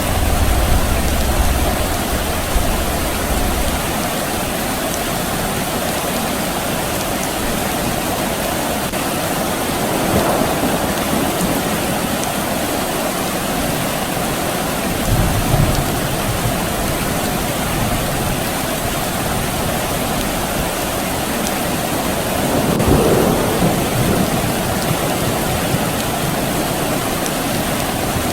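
Steady rain falling, an even hiss, with low rumbles of distant thunder near the start and again about halfway through.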